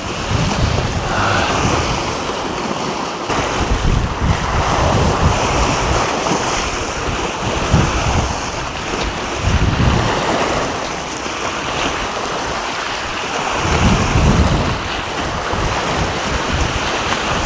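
Sea waves washing and surging, with gusts of wind buffeting the microphone.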